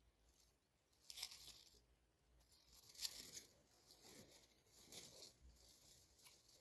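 Greater coucals tearing at a dead mouse in the nest: short scratchy rustles and tears, four or five of them, about a second apart.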